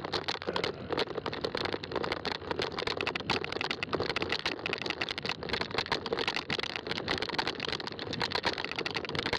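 Fat-tire mountain bike rolling over a rough trail: a dense, irregular crackle of the tires crunching over the ground, with the bike rattling.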